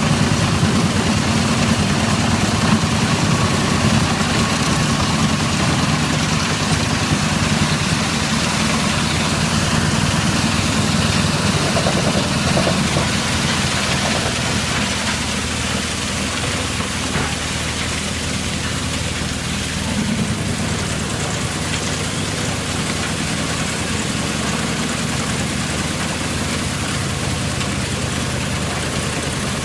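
Heavy machine's engine running steadily, a little quieter in the second half.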